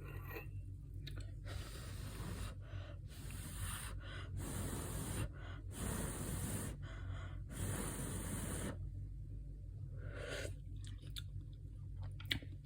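A person sipping coffee and breathing between sips: a run of short, noisy, hiss-like sips and breaths for the first nine seconds or so, and one more a little after.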